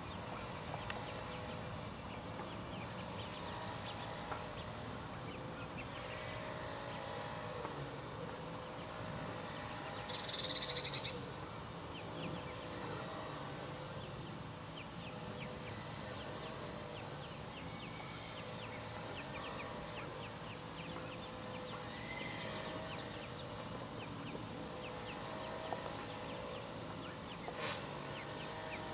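Mallard ducklings peeping: many short, high cheeps all through, over a steady low background hum. About ten seconds in there is a brief, louder, rapid high trill.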